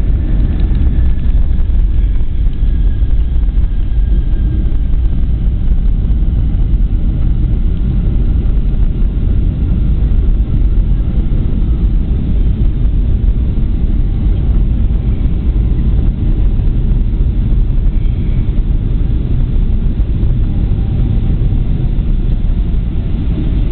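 Jet airliner cabin noise: a loud, steady rumble from the engines and rushing air, with faint whines slowly falling in pitch as the engines wind down while the plane slows after landing.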